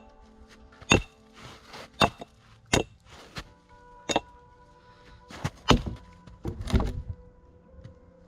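Wood being struck during log camp-building: about six sharp, irregular knocks roughly a second apart, the loudest near the end, over quiet background music.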